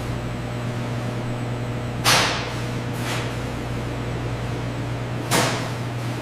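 Steady factory machine hum with three short, sharp whooshes about two, three and five seconds in; the first and last are the loudest.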